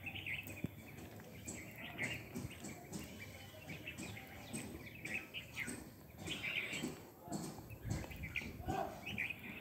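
A flock of small birds chirping in short, repeated calls.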